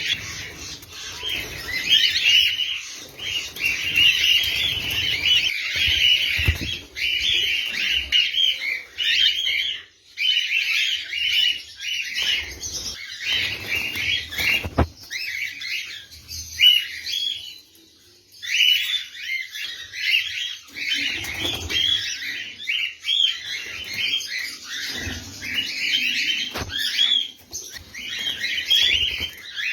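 A caged flock of lovebirds chattering shrilly and continuously, with a few brief lulls, occasional wing flutters and a few sharp knocks.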